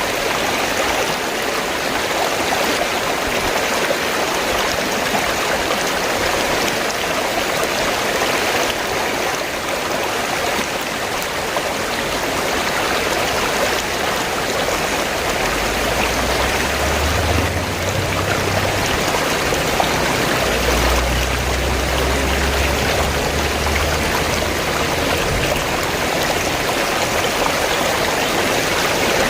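River water flowing steadily, an even rushing sound. A low rumble joins it for several seconds around the middle.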